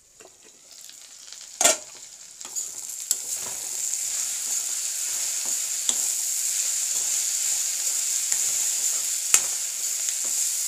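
Chopped radish, potato and greens sizzling in oil in a kadai while a metal spatula stirs and scrapes them, with a few sharp clinks of metal on the pan. A loud metal clank comes about a second and a half in, after which the sizzling swells and holds steady.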